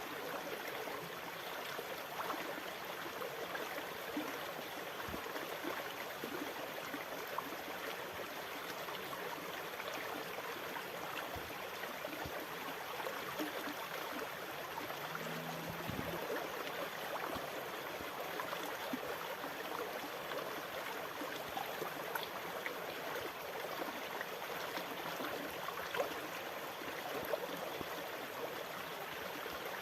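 Sea water washing steadily, an even rush of water without distinct wave crashes, with a few faint clicks and a brief low hum about fifteen seconds in.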